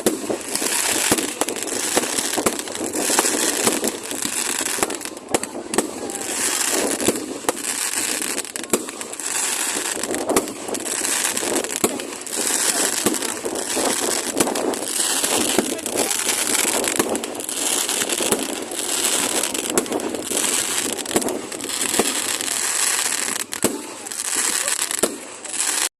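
Fireworks crackling densely with many sharp pops, swelling and fading in waves every couple of seconds.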